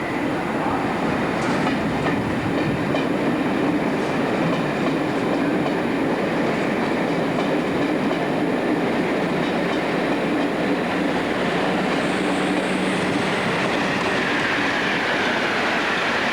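An InterCity train hauled by Class 73 electro-diesel 73208 departing and running past, with a steady noise of wheels on rail and some clatter over rail joints. A faint high whine comes in near the end.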